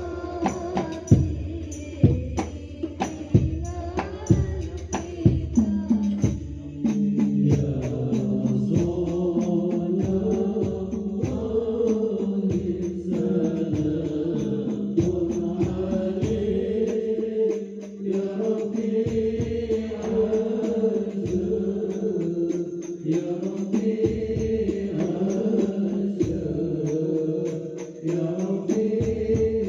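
A man singing a devotional Arabic-style chant in long, held, ornamented notes, with percussion such as frame drum and tambourine. The strikes are sharp and dense for the first six seconds or so, then lighter under the sustained melody.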